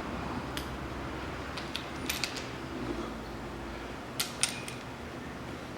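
A few light metal clicks and clinks as camshaft bearing caps and their bolts are set in place on the cylinder head. A small cluster comes about two seconds in and another about four seconds in.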